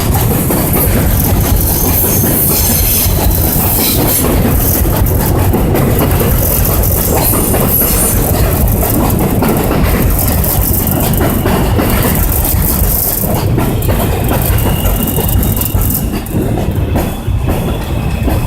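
R46 subway train pulling into the station, its wheels clattering over the rail joints and squealing. The sound is loud and rumbling, eases off after about fifteen seconds, and a steady high whine comes in near the end.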